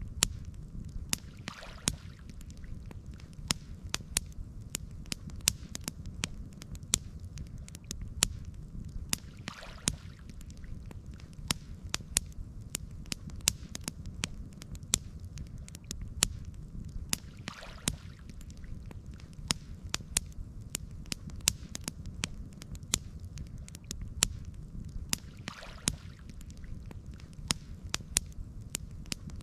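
Campfire burning and crackling: frequent sharp pops and snaps over a steady low rumble, with a faint soft rush about every eight seconds.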